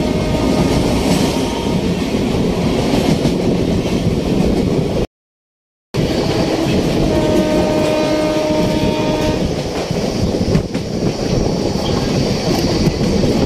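Netaji Express coaches running at speed, with a continuous rush of wheel and track noise. The audio drops out for under a second a little before halfway. Shortly after, a train horn sounds one steady note for about two seconds.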